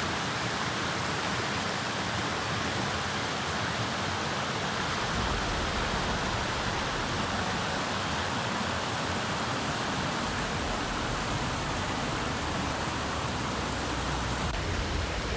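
Goldstream River rushing steadily, an even hiss of fast-flowing water, with a deeper low rumble joining about five seconds in.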